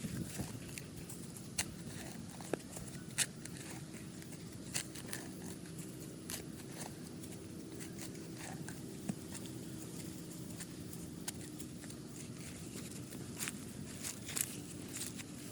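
Scattered light clicks and taps, a few sharper than the rest, over a steady low hum.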